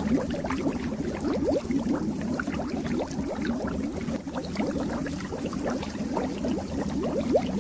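Fish tank water bubbling: a continuous stream of small bubbles gurgling and popping over a steady low rush of moving water.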